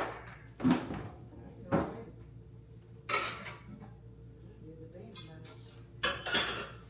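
Hard household objects being handled: a series of separate knocks and clatters, the loudest at the very start, then others about a second apart and a pair near the end, like dishes or items being set down and moved.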